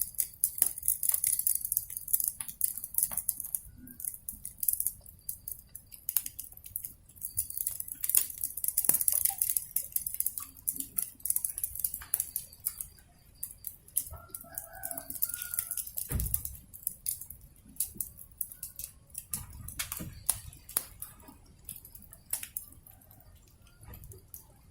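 Wood fire crackling with frequent sharp pops over a steady high hiss. A chicken clucks briefly about 14 seconds in.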